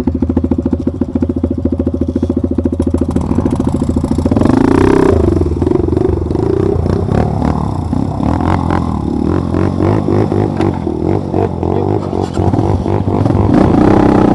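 Motorcycle engine running with an even, steady beat, then revved up about four seconds in and kept at varying revs, rising and falling.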